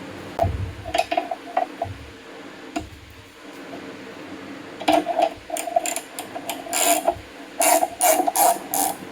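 Hand tools working on a bolt in an engine block: scattered metal knocks, then irregular runs of quick metallic clicks like a ratchet wrench, busiest in the second half.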